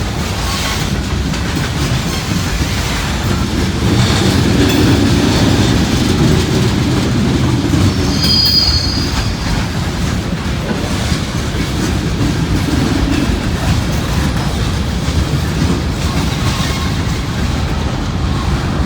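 Freight cars of a long CSX train rolling past with a steady rumble and wheel clatter. About eight seconds in, wheels give a brief high squeal on the new switch.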